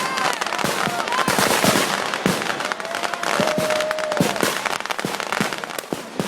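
Firework bangers and firecrackers going off in rapid, irregular sharp cracks, one after another, among a crowd.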